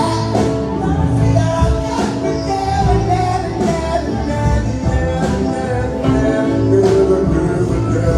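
A live band playing with drums, bass and sustained chords, with some singing voices in the mix.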